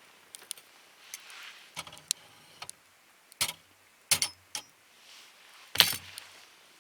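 Wood fire in a fire pit crackling, with irregular sharp pops, the loudest about six seconds in, over a soft hiss of flames.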